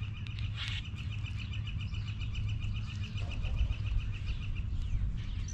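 A bird's fast, even trill of short high notes, about ten a second, that stops near the end, over a low steady rumble.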